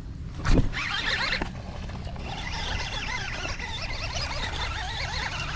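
A fishing reel being cranked in a rapid, wavering whir that cuts off sharply at the end, over a steady low hum. A single sharp thump comes about half a second in.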